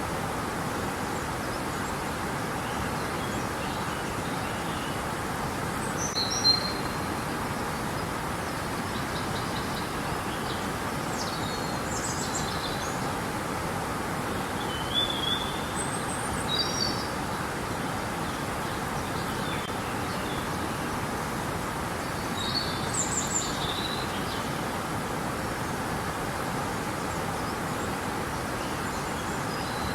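Steady rushing of river water, with birds chirping now and then over it, in short bursts about six, twelve, fifteen to seventeen and twenty-three seconds in.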